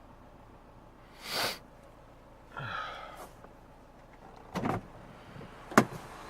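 A few separate handling noises: a brief rush of noise about a second in, a scrape near the middle, then a double knock and a sharp click near the end, the click the loudest.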